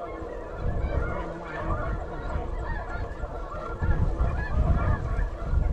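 A flock of snow geese calling, many short high honks overlapping. Wind gusts rumble on the microphone, heavier from about four seconds in.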